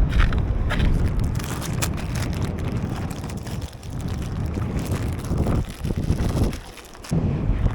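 Wind buffeting the microphone in gusts, briefly easing off near the end.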